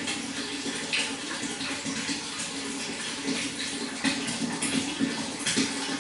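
Water running and splashing steadily, like a small spout or waterfall pouring into a fish pond, with frequent little splashes.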